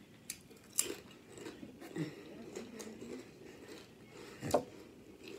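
Potato chip being bitten and chewed close to the microphone: sharp crunches about a second in, softer crackles after, and another loud crunch near the end.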